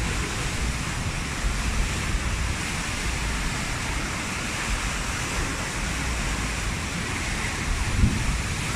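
Strong storm wind buffeting the microphone over the steady rush of breaking waves, with a brief louder buffet near the end.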